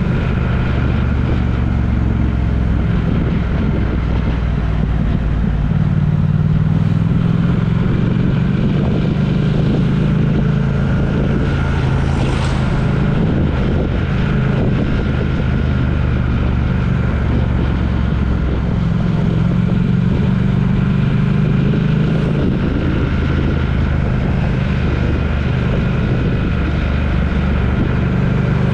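A vehicle's engine and road noise on the move, a steady low drone with no change in speed.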